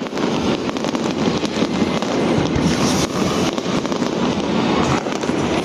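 Fireworks display: a dense, continuous run of bangs and crackling shells with no let-up.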